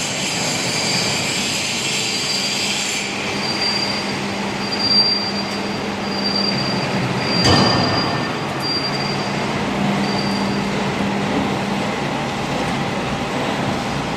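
W24S hydraulic profile bending machine running as it bends square steel tube: a steady hum from the hydraulic drive, with an on-and-off high metallic squeal through the middle and a single sharp clank about seven and a half seconds in.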